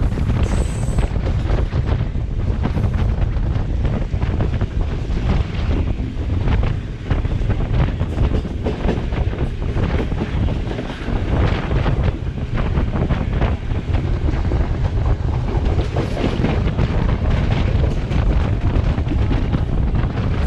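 Strong wind buffeting the microphone from a moving express train, over a steady low rumble of the train running along the track, with scattered clicks and knocks.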